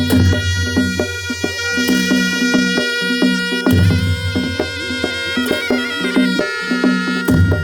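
Nepali Panche Baja band playing: a reedy shehnai holds a sustained melody over steady drum beats and percussion strokes.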